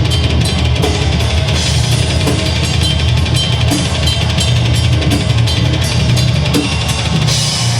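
Live deathgrind band playing loud: a drum kit pounding fast, with a heavy bass drum under distorted guitar and bass.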